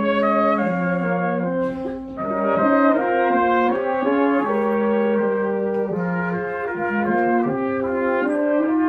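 Brass quartet playing a chordal passage: several parts hold notes together and move from chord to chord, with a brief break in the sound about two seconds in.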